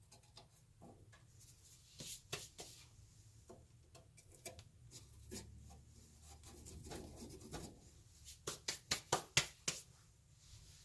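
Hands handling small parts, with rubbing and scattered light clicks, then a quick run of about seven sharp clicks or taps near the end, over a faint low steady hum.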